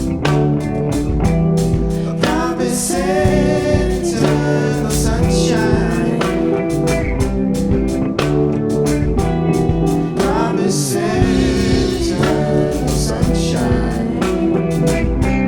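Live band playing a song: a steady drum beat under sustained bass and guitar chords, with a bending lead melody line twice.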